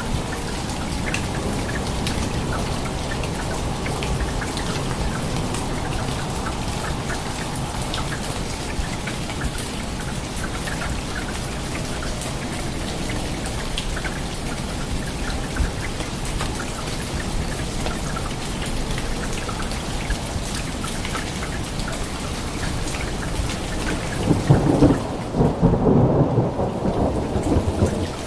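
Steady rain falling, with a roll of thunder rumbling near the end.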